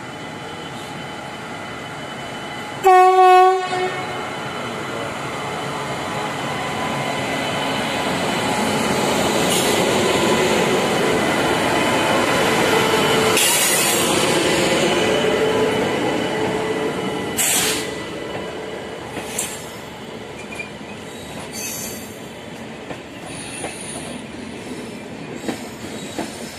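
Indian Railways WAP-7 electric locomotive sounds its horn once, loud and brief, about three seconds in. The locomotive and its LHB coaches then roll past, their wheel-and-rail rumble building to a peak mid-way and easing off. Sharp clacks of the wheels over rail joints come every few seconds, over a faint steady wheel squeal.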